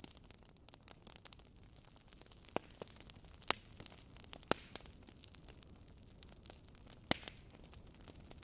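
Wood fire in a fireplace crackling: a steady low hiss with many small ticks and a handful of sharper pops, the loudest about three and a half, four and a half and seven seconds in.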